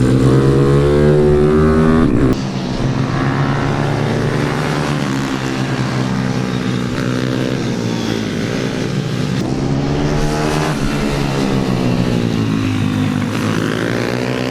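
Pit bike engine being ridden hard, its note climbing and falling repeatedly as the throttle is opened and closed. The level drops sharply about two seconds in as the throttle shuts, and the pitch climbs again several times afterwards.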